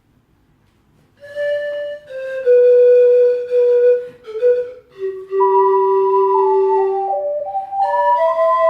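Pan flute and ocarina duet playing a slow melody in clear, pure tones. The lower line begins about a second in, and a second, higher part enters around the middle to play alongside it in harmony.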